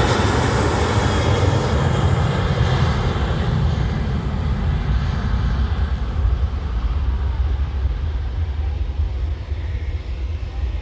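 Aeroplane taking off, its engine noise loud at first and then fading as the higher sound dies away, leaving a low rumble.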